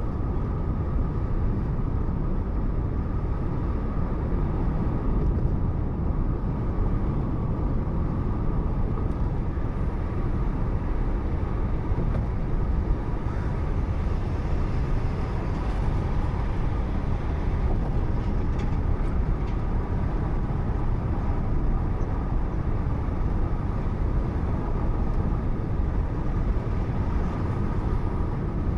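Steady driving noise of a car on the road, heard from inside through a dashcam microphone: low engine and tyre rumble with a faint steady whine, unchanging throughout.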